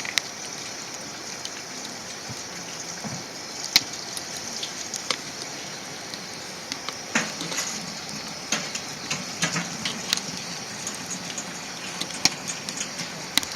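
Wood campfire crackling, with a steady hiss and irregular sharp pops and snaps.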